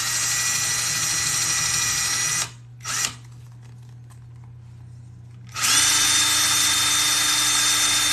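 Small electric drill running and drilling a rivet hole through layered leather. It spins up with a rising whine, runs for about two and a half seconds and stops, gives a short blip, then runs again from about halfway to near the end.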